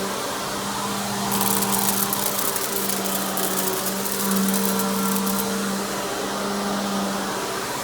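Simplicity Symmetry Deluxe upright vacuum's 12-amp single-stage motor running with a steady hum. From about a second in until about halfway through, a rapid high crackle rides over it.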